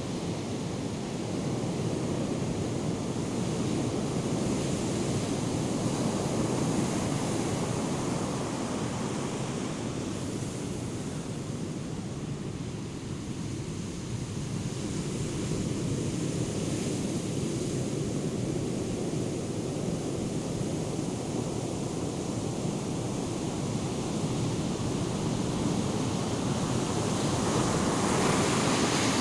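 Ocean surf from a hurricane swell breaking on the shore: a steady rush of whitewater that swells and eases slowly, growing louder near the end as a bigger wave breaks.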